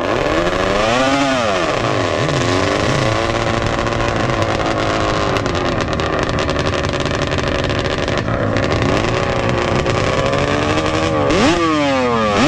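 Drag-racing ATV engines revving loudly. The revs rise and fall about a second in, then hold steady, and near the end come sharp rev blips, each dropping away after it.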